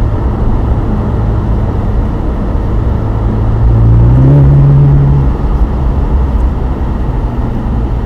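Ferrari engine under way, its note rising as it accelerates about four seconds in and easing off a second or so later, over steady wind rush in the open-top car.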